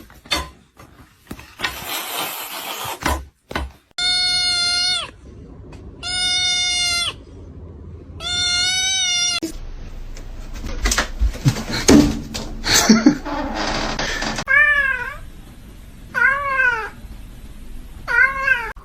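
Domestic cat meowing: three long, steady-pitched calls about two seconds apart, then a stretch of knocking and clattering, then three short meows that rise and fall in pitch.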